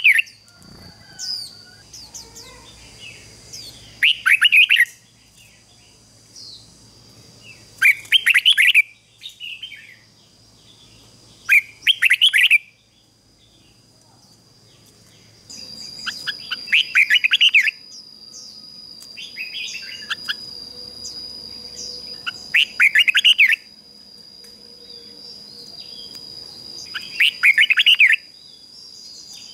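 Red-whiskered bulbul singing loud, quick, warbling song phrases, about eight of them, one every three to four seconds. A steady high-pitched tone runs beneath the song.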